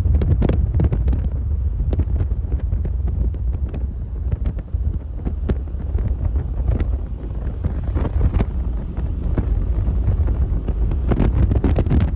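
Strong, gusty squall-line wind buffeting the microphone in a loud low rumble, with many brief sharp taps scattered through it.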